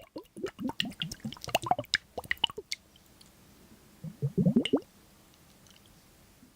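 Wet squishing and clicking: a quick run of short squelches for about three seconds, then a denser burst of squelches around four and a half seconds in.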